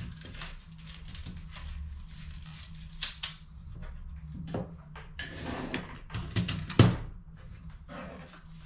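Hands working on an HP CE285A laser toner cartridge: a string of sharp plastic clicks, knocks and brief scrapes, with a louder knock about three seconds in and another near seven seconds, over a low steady hum.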